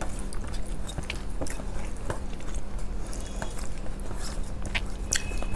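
A person chewing a mouthful of rice and mustard pomfret curry close to the microphone: scattered wet mouth clicks and smacks. Fingers mix rice and curry on a steel plate.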